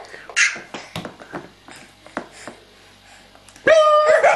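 A baby pauses between fits of laughter, with a short breathy gasp and a few faint clicks. About three and a half seconds in, a loud new peal of belly laughter breaks out.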